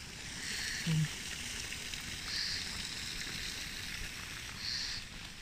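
Outdoor park ambience: a steady soft hiss, with three short high bird calls about two seconds apart and a brief low sound about a second in.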